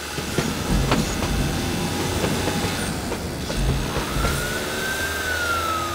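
Train running along the rails with a rumbling clatter and a few sharp clicks. About four seconds in, a siren wail joins it, rising and then starting to fall near the end.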